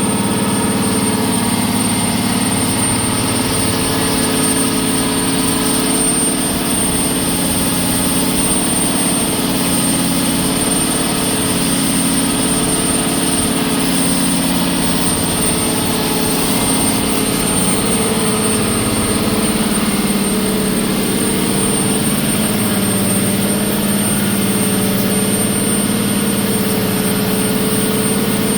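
MAN marine diesel engine rated 1066 kW running steadily at full load. It is loud and even, with a steady high-pitched whine on top.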